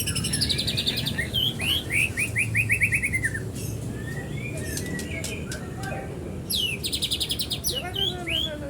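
Young white-rumped shama (murai batu) singing a varied song: a fast run of repeated notes, then clicks and short calls, and a quick burst of high notes near the end. It is the kind of song the seller praises for its mimicry of canary, cililin and lovebird calls.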